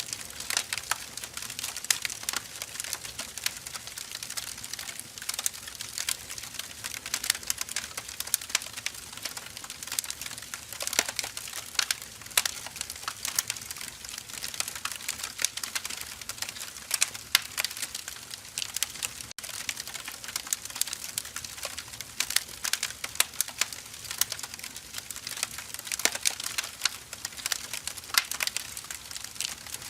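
Wood fire burning: dense, irregular crackling and sharp pops from burning firewood over a steady hiss.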